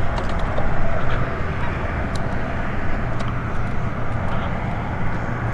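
Kawasaki ZX-6R sport bike on the move: a steady rumble of engine, wind and road noise. A low hum grows stronger near the end.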